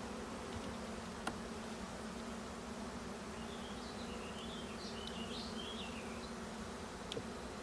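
Honeybees buzzing in a steady hum around an open hive. Two light clicks sound, one about a second in and one near the end.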